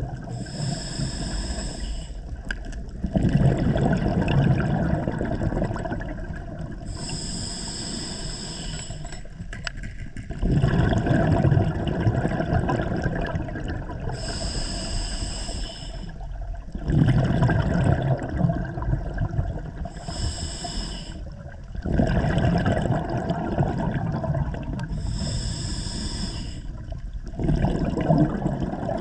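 A scuba diver breathing underwater through a regulator: a short hiss on each inhalation, then a longer burble of exhaled bubbles, about five breaths in a slow, even rhythm.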